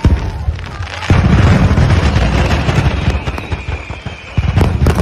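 A truckload of fireworks accidentally detonating all at once on the ground: a dense, unbroken barrage of rapid bangs and crackling with a deep rumble underneath. It grows heavier about a second in.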